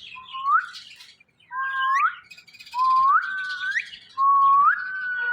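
Ringneck parakeet whistling: about four clear whistled notes in a row, each held steady and then flicking sharply upward at its end.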